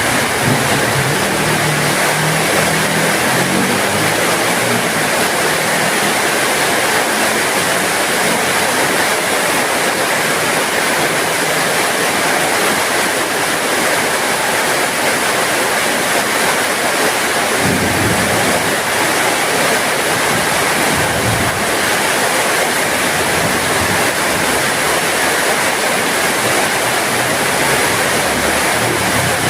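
Heavy rain falling steadily, an even, dense hiss without a break. Faint low rumbles come in near the start and again twice, about 18 and 21 seconds in.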